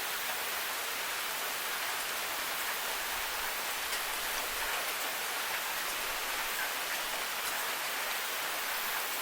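Steady rain falling on hard surfaces, an even hiss with a few faint drop ticks.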